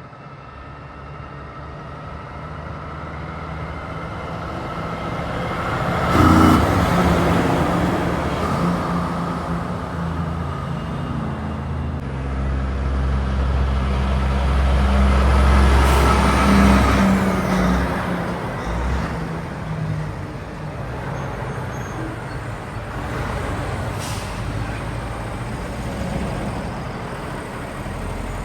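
Heavy trucks passing on a highway. Engine and tyre noise builds to a loud pass about six seconds in, and a second truck with a strong low engine note passes around fifteen to seventeen seconds, then fades into steady traffic noise.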